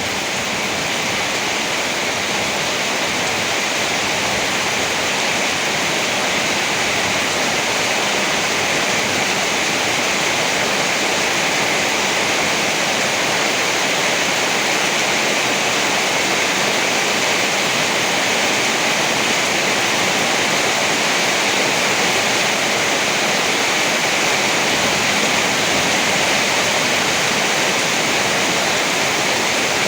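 Rain pouring steadily: a loud, even hiss with no thunder claps, swelling slightly over the first few seconds.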